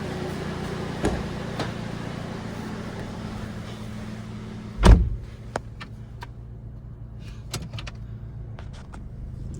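Steady hiss and low hum of a running machine, then a single heavy thump about halfway through, after which the hiss falls away and a few light clicks and knocks follow.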